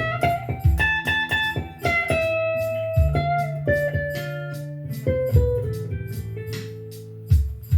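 Blues played on guitar: a melodic line of plucked notes that steps down in pitch over held bass notes, with a steady beat behind it.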